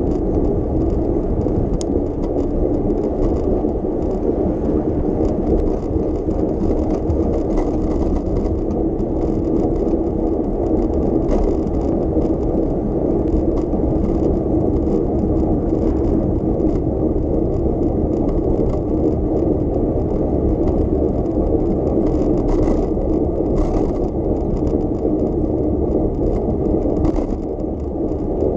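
Steady rolling noise of a bicycle being ridden, with wind on the microphone and occasional light rattles.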